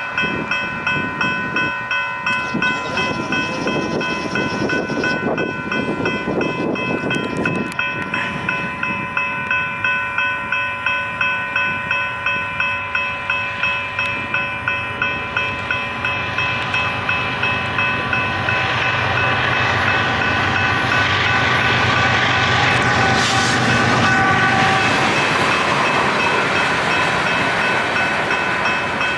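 Railroad grade-crossing bell ringing in a steady rapid series of strikes, about two a second, as a train passes over the crossing. The train's rumble swells and becomes the loudest sound in the second half.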